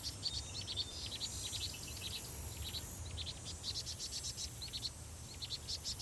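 Small birds chirping faintly, many quick high notes in irregular runs.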